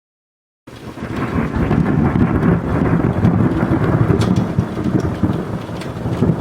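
Thunderstorm: steady heavy rain over a deep rumble, cutting in suddenly out of dead silence about half a second in, with a few sharp ticks.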